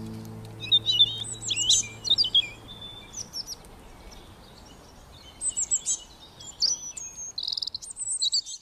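Songbirds chirping and twittering in quick runs of high, sliding notes, coming in three clusters with short lulls between them.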